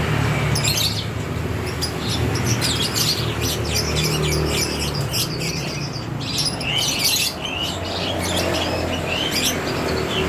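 Lovebirds chirping, many short high chirps in quick, irregular succession, over a steady low hum.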